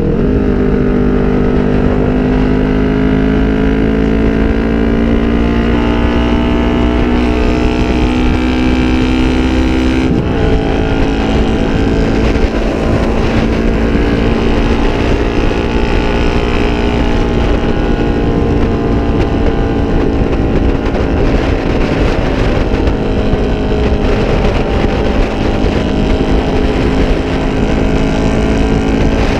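2007 Kawasaki Vulcan 500's parallel-twin engine running through drag pipes under way, its pitch climbing steadily as the bike accelerates, dropping sharply at a gear change about ten seconds in, then holding at a steady cruise. Wind rushes over the microphone underneath.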